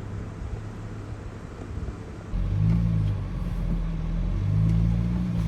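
Vehicle engine running at low speed. About two seconds in it jumps louder and rises and falls in pitch as the driver eases the vehicle around to get it level.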